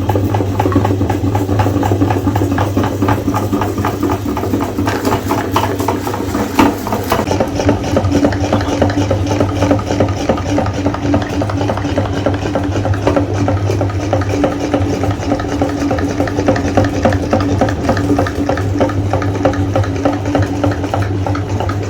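Electric meat grinder running with a steady motor hum while it grinds Oreo cookies, the crunching coming through as a dense rattle. It cuts off right at the end.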